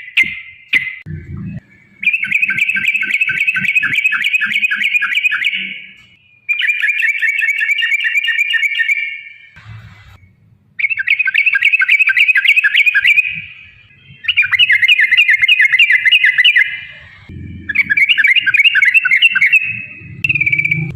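Yellow-vented bulbul (trucukan) singing long, fast trills: five runs of a few seconds each, separated by short pauses, after a few short notes at the start.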